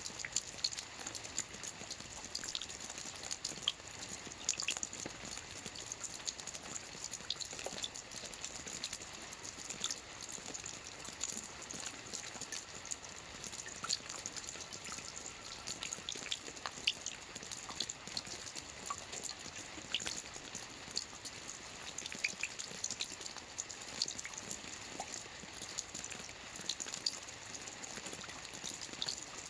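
Soft rain falling on a roof: a steady patter of many small drops, with scattered sharper drips standing out.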